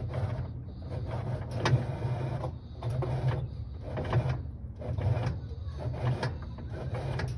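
A small electric motor runs in repeated bursts about a second long, with short pauses between them and clicks and rattles throughout.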